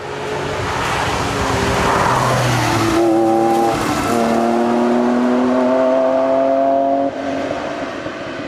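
Historic rally car engine at full throttle, accelerating hard through the gears: the engine pitch climbs, breaks briefly at gear changes about three and four seconds in, climbs again in a long pull and drops as the driver lifts near the end.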